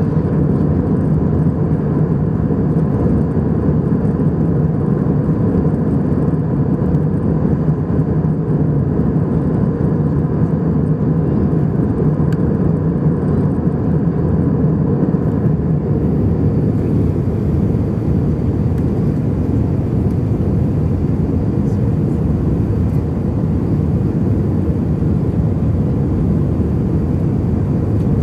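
Steady low cabin noise of an airliner in flight: the even rush of jet engines and airflow heard inside the passenger cabin.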